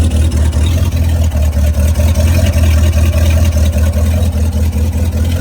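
MerCruiser 5.7L V8 boat engine running steadily on the trailer, with a deep, even rumble, while antifreeze is pumped through its cooling system for winterization.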